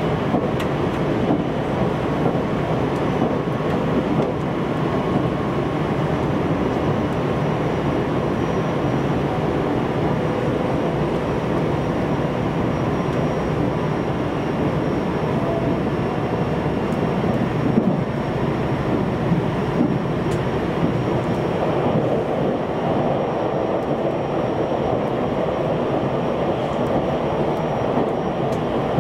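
Steady running noise heard inside a JR Central 373 series electric train travelling at speed: wheels rolling on the rails with a few faint steady whine tones and occasional light clicks.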